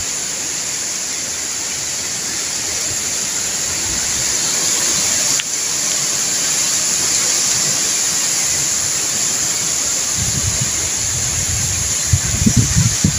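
Typhoon-force wind rushing through coconut palms and trees, a steady noise that grows a little louder a few seconds in, as the wind keeps getting stronger. Near the end, gusts buffet the microphone with deep, uneven thumps.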